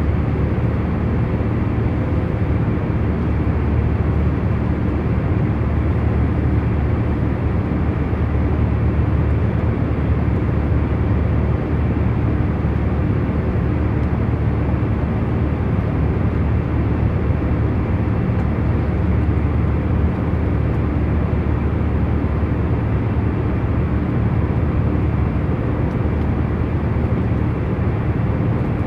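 Airliner cabin noise in cruise flight: a steady, low hum of engines and airflow with faint steady tones in it, unchanging throughout.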